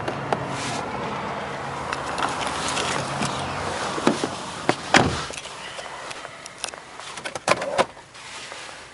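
Manual passenger seat of a car being adjusted by hand: latch clicks and the seat scraping along its rails, then a sharp clunk about five seconds in as it locks, followed by a couple of lighter clicks.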